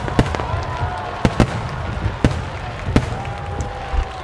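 Starmine fireworks display: about six sharp aerial shell bursts at uneven intervals over a continuous low rumble of launches and distant explosions.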